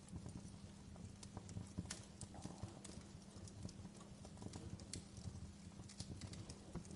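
Wood fire burning low in a fireplace, crackling with irregular sharp pops and snaps over a low, steady rumble.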